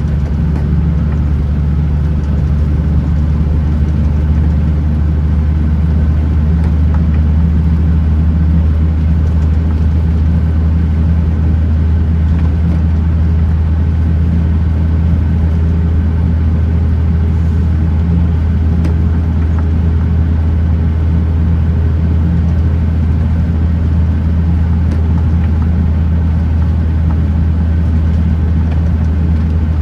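Kenworth T909 truck's diesel engine running steadily on the road, a deep even drone with no change in pitch.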